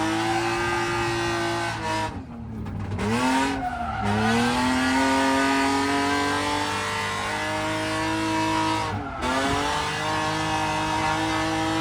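BMW E36 drift car's engine held at high revs through a drift, with the revs dropping sharply and climbing back twice, about two seconds in and again near nine seconds.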